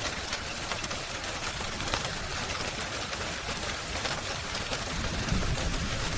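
Steady rain hiss mixed with the scattered pops and crackles of a fire. A low rumble comes in near the end.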